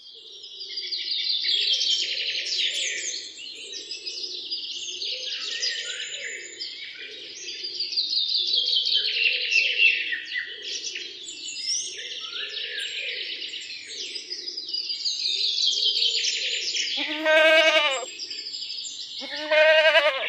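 A chorus of many small birds chirping and twittering continuously, with two long bleats, each about a second, near the end.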